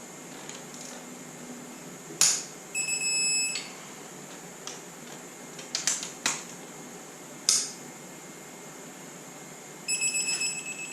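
Digital torque wrench beeping as it reaches its set torque on the cylinder head bolts: one long beep about three seconds in and two more near the end. Sharp clicks of the wrench and socket on the bolts come between the beeps.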